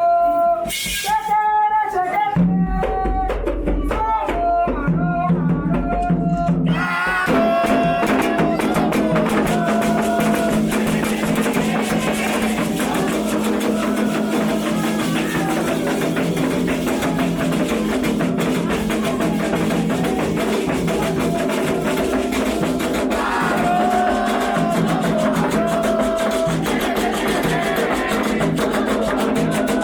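A religious chant with drums: a single voice sings alone, drum strokes join after a couple of seconds, and about seven seconds in a fuller group of voices and percussion comes in and keeps going steadily.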